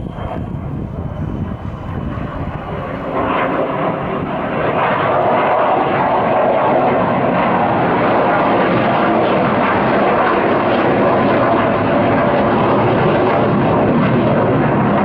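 US military fighter jet flying low overhead, its engine roar building over the first four or five seconds and then holding loud and steady.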